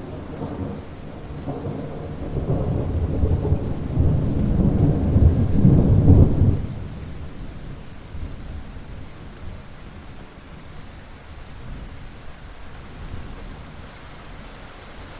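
A roll of thunder that swells over several seconds, peaks about six seconds in and then fades away quickly. Steady rain hisses underneath throughout.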